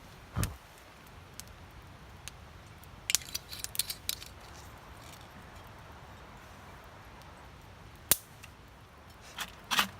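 Cutlery and cookware clinking and tapping in short scattered bursts, with a dull thump about half a second in and a single sharp click about eight seconds in.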